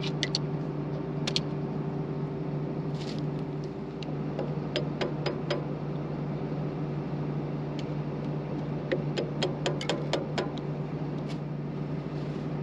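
A motor running with a steady hum, with scattered sharp clicks and light metal knocks, as of hand work on a shaft and its key.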